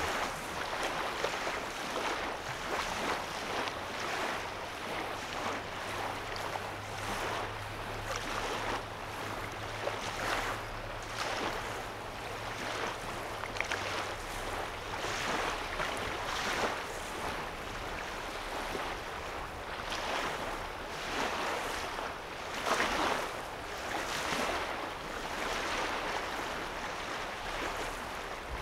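Small lake waves lapping and washing onto a sandy shoreline, in soft surges every second or two. A low steady hum runs underneath from about four seconds in to about fourteen.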